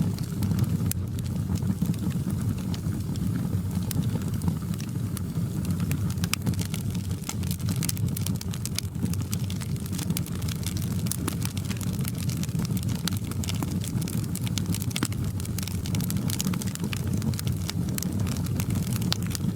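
Wood fire in a fireplace burning, with frequent sharp crackles and pops over a steady low rumble.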